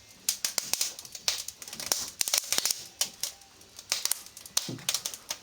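Wood fire crackling in a fireplace: irregular sharp pops and snaps, several a second.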